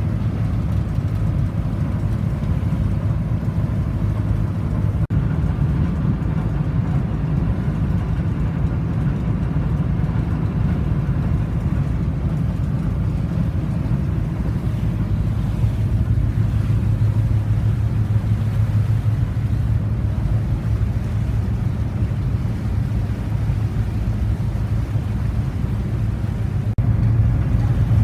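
Atlas Imperial marine diesel engine running steadily at an even speed, a low, dense, unchanging engine sound.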